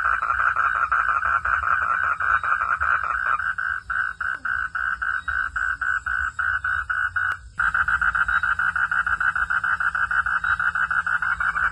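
Frogs calling at night in a fast, continuous train of pulsed calls. The pulsing thins out for a few seconds in the middle, breaks off for a moment about seven and a half seconds in, then resumes denser.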